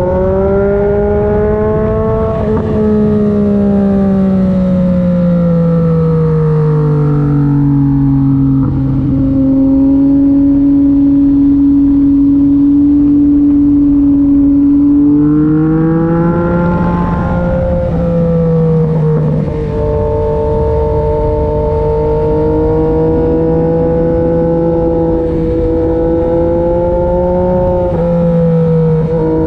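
Yamaha MT-09 SP three-cylinder engine through an SC-Project exhaust, ridden at part throttle. The engine note falls over the first several seconds, holds low and steady, rises again about halfway through, then holds with small swells.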